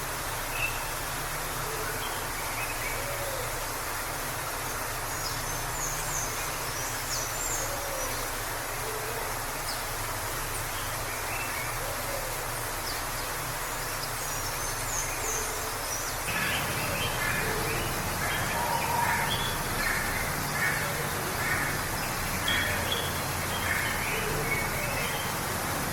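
Steady rush of a forest waterfall, with small birds chirping over it: a few high, thin chirps in the first half, then busier chirping from about two-thirds of the way through.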